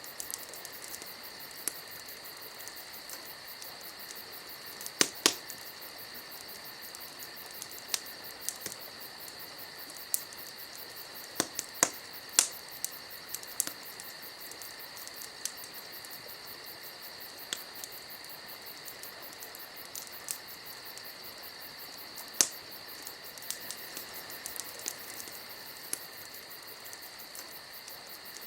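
Wood fire crackling, with sharp pops at irregular intervals every second or two, over a steady high-pitched trill.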